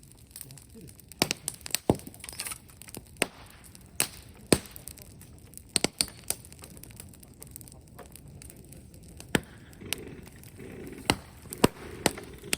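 Wood-and-bamboo bonfire crackling, with sharp, irregular pops and snaps over a low steady hiss.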